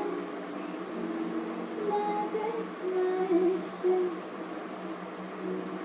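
Soft singing of a wavering melody over a steady low hum.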